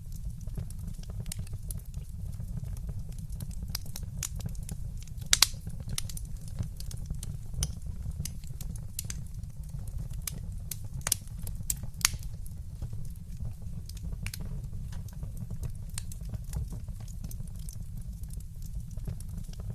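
Wood fire crackling in a fireplace: irregular sharp pops and snaps over a steady low rumble, with the loudest pops about five seconds in and twice around eleven to twelve seconds.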